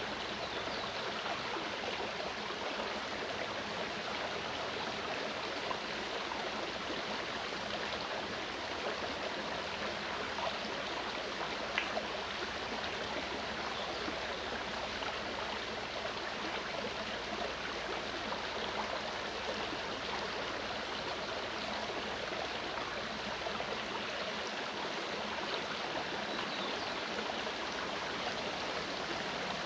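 Mountain stream running steadily, an even rushing and gurgling of water, with one brief click about twelve seconds in.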